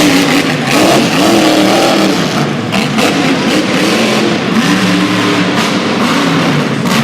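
Monster truck engine revving loudly, its pitch rising and falling again and again.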